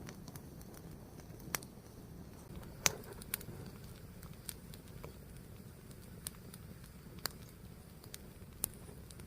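Fire burning with a steady low rumble and sharp, irregular crackles, about one or two a second, the loudest about three seconds in.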